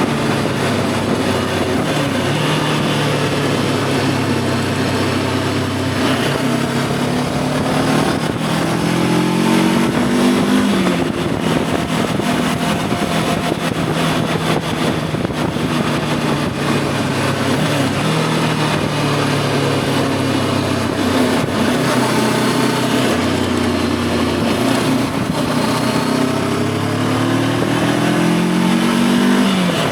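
Voge 525 DSX motorcycle's parallel-twin engine on the move, held at steady revs for long stretches, with two pulls where the revs climb and then drop sharply at a gear change, about ten seconds in and again at the very end. Wind and road noise throughout.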